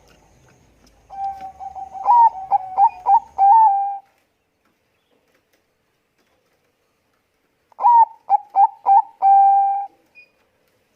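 Zebra dove of the Bangkok perkutut strain cooing: two song phrases about four seconds apart, each a quick run of short staccato notes ending in a held note.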